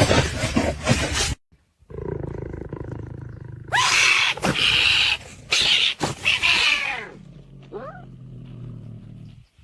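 Animal vocal sounds: loud harsh cries in several bursts in the middle, with a quieter rising call after them. Another sound before them stops suddenly.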